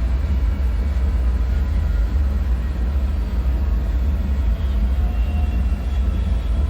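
Steady deep rumbling drone of a dark underground-bunker ambience, with a couple of faint, brief high tones about five seconds in.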